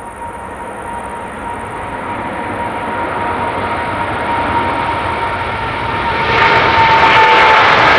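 Jet airliner's engines growing steadily louder as the aircraft approaches, with a thin whine that slowly drops in pitch; the noise jumps up sharply about six seconds in.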